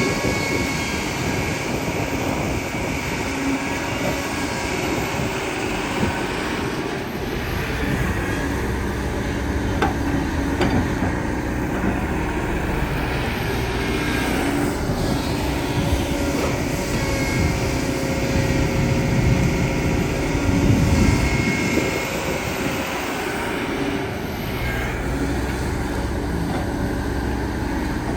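Excavator's diesel engine running steadily under working load, its note shifting as the machine works, loudest about twenty seconds in.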